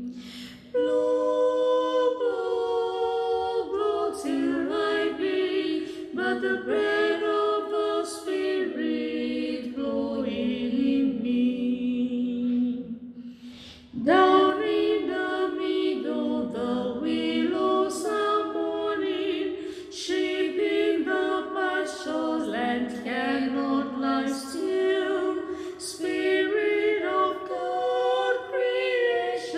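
Unaccompanied voices singing a hymn in harmony, with a short pause between phrases about halfway through.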